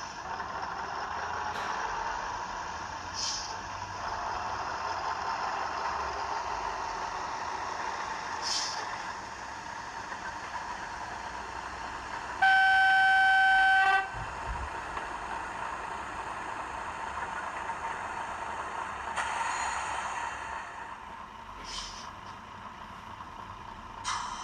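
Digital sound decoder in an O gauge Class 03 diesel shunter model playing the shunter's engine running steadily through its small speaker, with a few short hisses. About halfway through comes a single horn blast lasting about a second and a half, the loudest sound.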